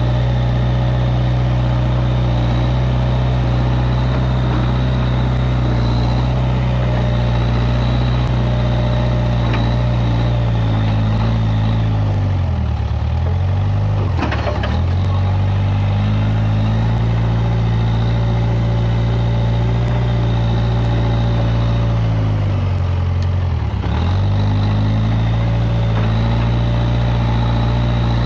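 Case 580G backhoe loader's engine running steadily, its pitch sagging briefly three times, about halfway through and again near the end, as it is pulled down under load. A single sharp knock comes about halfway through.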